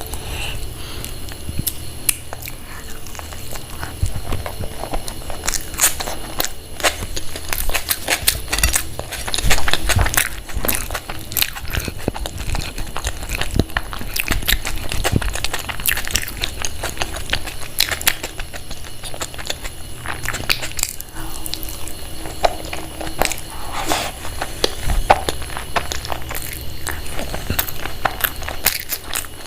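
A person eating close to the microphone: chewing and lip smacking with many small wet clicks, over a steady low hum.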